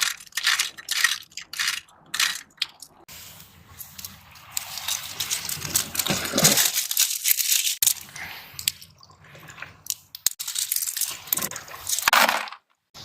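Rock snail shells crunching and clinking against rock and each other in uneven bursts as they are scraped off the stones and gathered, with a longer rushing, washing stretch in the middle.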